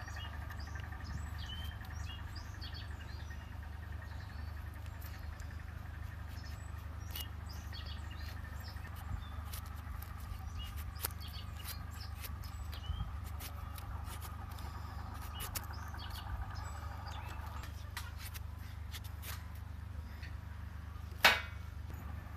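Small wood fire crackling in a compact folding camp stove, with scattered clicks and one sharp snap near the end. Birds chirp in the background over a steady low rumble.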